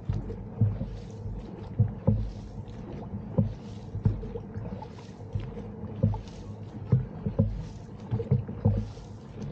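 Dragon boat paddlers stroking together: a splash of paddle blades in the water about every 1.3 seconds, with low knocks in between.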